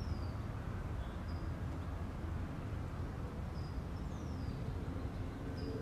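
Steady low rumble, with a small bird calling now and then: short high chirps and two quick falling whistles, one at the start and one about four seconds in.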